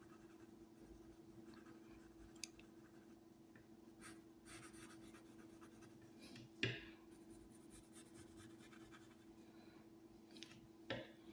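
Near silence: a faint steady room hum with a few soft scratches and light knocks, the loudest about two-thirds of the way through and another near the end.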